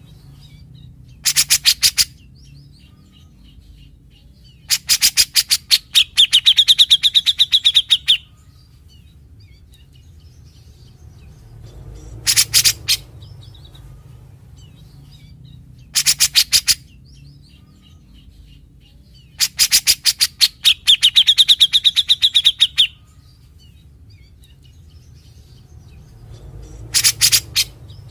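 Cucak jenggot (grey-cheeked bulbul) singing: short bursts of rapid, rattling notes every few seconds, twice running on into a buzzy trill about two seconds long. These rasping rattles are the 'besetan' phrases the species is known for.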